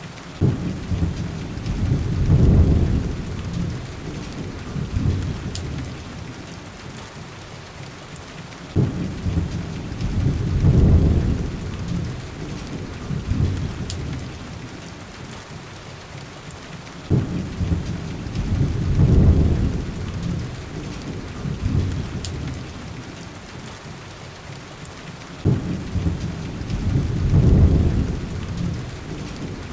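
Steady heavy rain on window glass, with thunder rolling four times at even intervals of about eight seconds. Each roll starts with a sudden crack, swells into a low rumble for a couple of seconds, then fades back under the rain.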